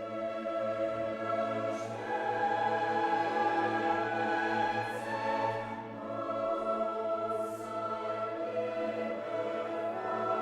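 Background classical choral music with orchestra, voices holding long chords that change about two seconds in and again near the middle.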